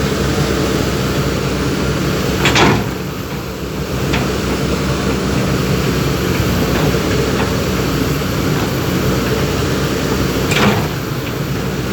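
Backhoe's diesel engine running steadily, with a short loud metallic clank about two and a half seconds in and another near the end.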